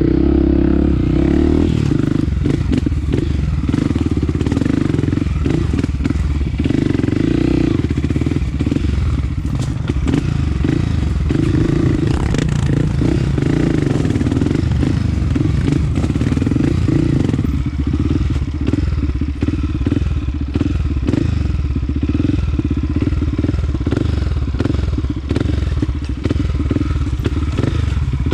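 Honda CRF250F trail bike's single-cylinder four-stroke engine running continuously while riding a rough trail, heard from the rider's helmet, with frequent short knocks and clatter over it.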